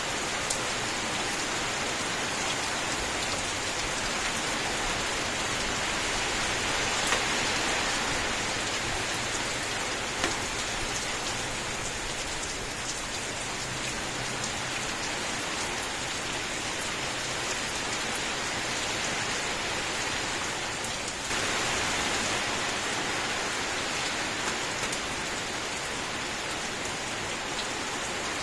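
Steady rain falling in a dense, even hiss, with a few louder single drops standing out now and then. The rain turns suddenly a little louder about three-quarters of the way through.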